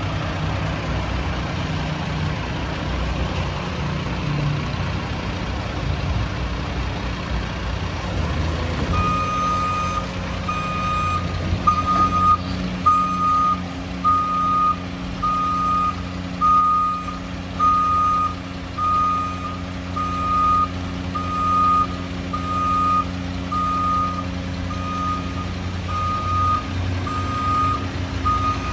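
Battle Motors LET2 garbage truck running. About nine seconds in, its engine note changes and its backup alarm starts beeping, about one beep a second, over the engine: the truck is in reverse.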